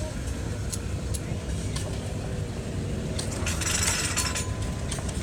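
Old Minneapolis tractor engine running steadily with a low, pulsing beat and scattered light clicks, with a brief hiss about three and a half seconds in.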